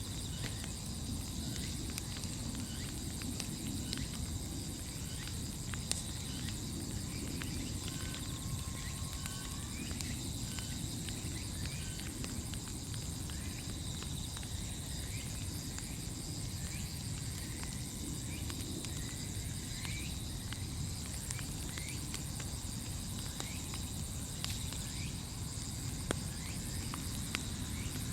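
A large wood bonfire burning, with scattered crackles and pops over a low rush. Insects trill steadily in the background.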